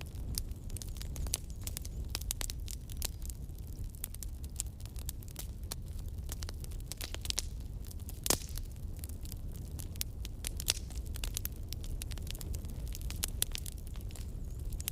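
Campfire crackling, with dense irregular pops and snaps over a steady low rumble. One pop about eight seconds in is louder than the rest.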